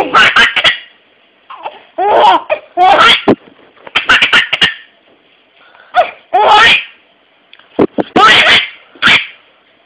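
A baby laughing hard in a string of short bouts, each a burst of breathy laughs, with brief pauses between them.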